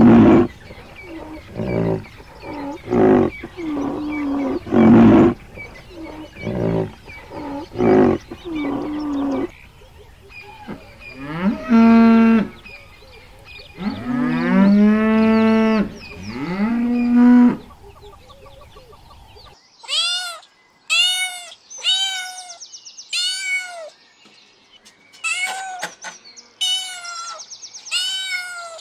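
A sequence of animal calls. First comes a run of short loud calls. Then, from about 11 to 17 seconds in, cattle moo several times in long calls that glide in pitch. From about 19 seconds on there is a series of short, higher calls repeated about once a second.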